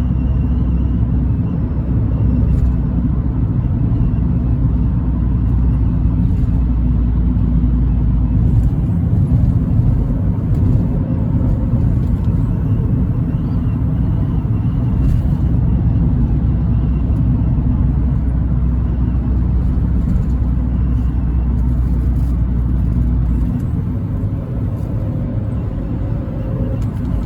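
Abarth 500C's turbocharged 1.4-litre four-cylinder engine and exhaust running with a steady low rumble. The deepest part of the drone drops away about nine seconds in, comes back, and fades again near the end.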